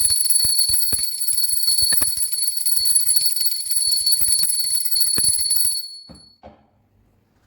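An alarm bell ringing loudly and steadily with a shrill, metallic ring, stopping abruptly about six seconds in, with a few light knocks underneath.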